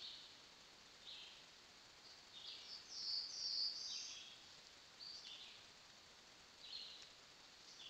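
A bird calling, faint against a steady hiss: short, harsh, high calls about once a second, with a longer, louder run of calls about three seconds in.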